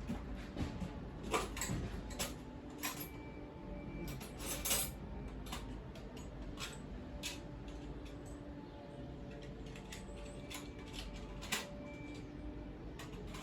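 Scattered metallic clinks and taps of hand tools on small metal parts such as nuts and fittings, as a gas boiler is taken apart.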